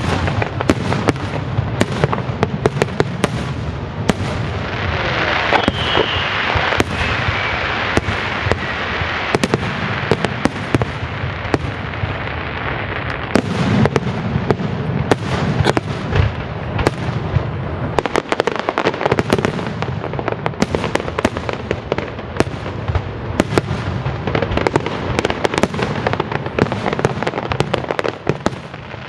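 Aerial fireworks display: a dense, continuous run of bangs and crackling shell bursts, with a rushing hiss swelling between about five and eight seconds in.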